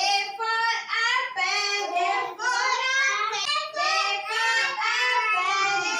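A young child singing, with no instruments.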